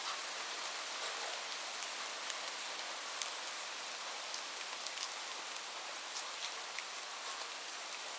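Steady rain falling on a roof: an even hiss with many sharp drop ticks scattered through it.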